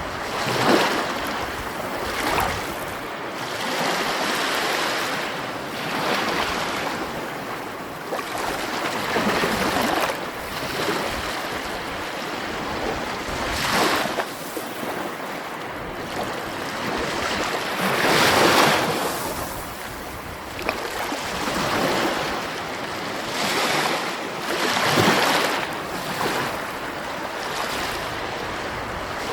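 Sea waves breaking one after another, each surging up every few seconds over a continuous wash of surf.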